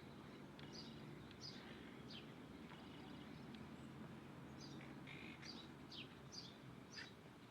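Small birds chirping: short, high chirps that fall in pitch, repeated every half second or so. A faint, steady low hum sits underneath.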